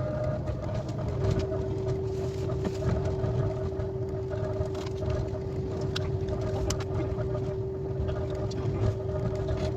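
Steady interior hum of a KTX high-speed train car standing at or creeping through a station: a low rumble with a steady whine that comes in about a second in and holds, and a few faint clicks.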